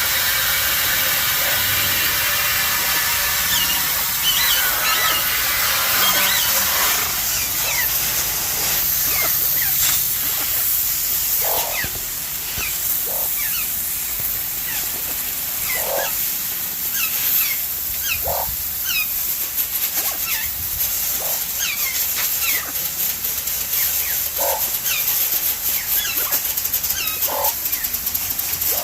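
Water spraying from a hose over aviary cages as a steady hiss, with parrots giving short falling chirps and louder squawks scattered through it.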